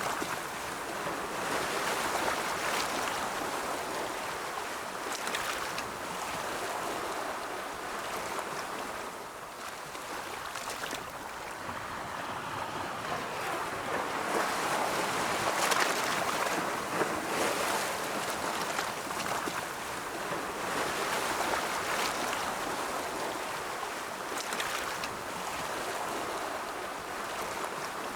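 Ocean waves breaking: a continuous wash of surf that swells and eases every few seconds.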